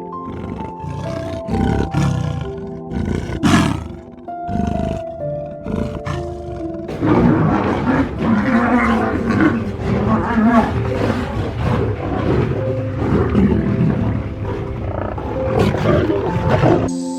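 Lion roaring and growling over soft background piano music: a few short calls at first, then continuous calling from about halfway. The animal sound stops just before the end, leaving the music alone.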